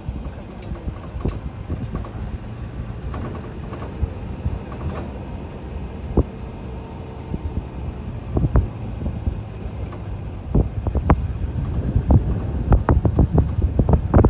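Steady low rumble with wind on the microphone, broken by scattered knocks and thumps that come more often and louder in the last half.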